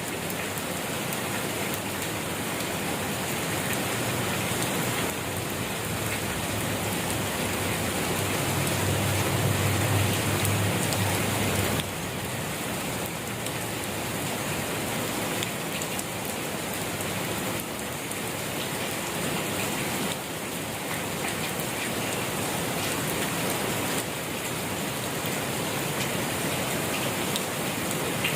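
Steady rain falling, an even hiss of many drops landing. A low rumble swells briefly near the middle, then eases off.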